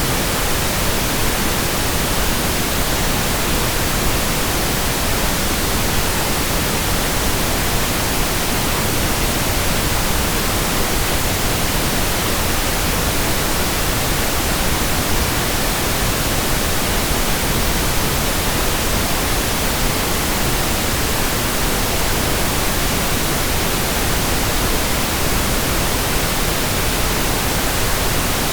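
Steady pink noise: an even, unchanging hiss spread across the whole range, fuller in the low end than white noise.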